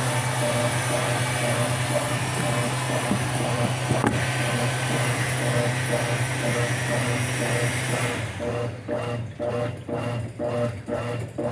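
Brastemp 5 kg top-loading washing machine running a wash cycle: a steady motor hum with a rush of churning water, changing about eight seconds in to a rhythmic swish of the agitator beating back and forth about twice a second.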